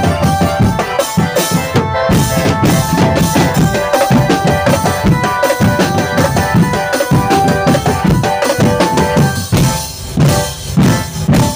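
Drum band music: rapid snare and bass drum beats under a held melody line, with a short break in the drumming about ten seconds in.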